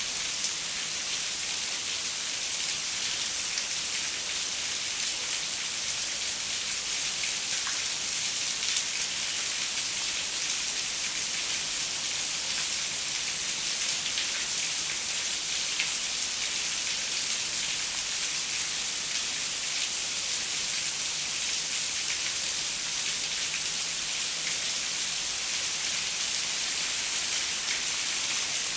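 Steady rain falling on a window, a dense even hiss with fine drop ticks.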